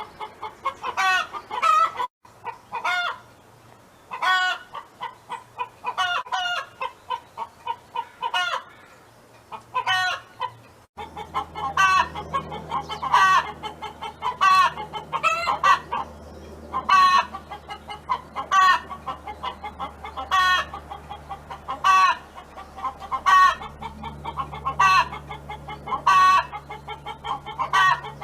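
Domestic hen clucking steadily, with quick runs of low clucks broken by louder, sharper calls about once or twice a second. A low steady hum sits underneath from about a third of the way in.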